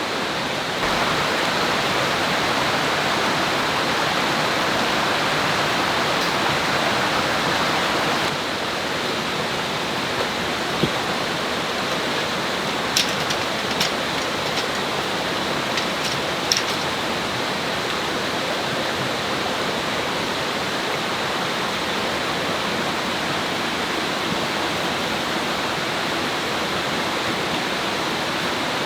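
Steady rushing of a flowing river or stream, a little louder for the first few seconds, with a handful of short, sharp clicks around the middle.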